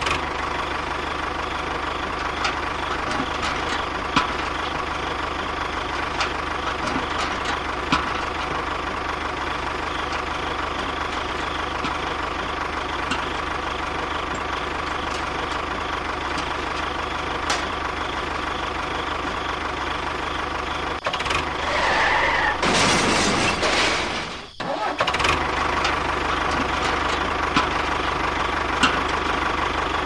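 Tractor engine sound running steadily. About two-thirds of the way through, a louder, noisier burst lasts about two seconds, and then the level drops briefly before the engine sound resumes.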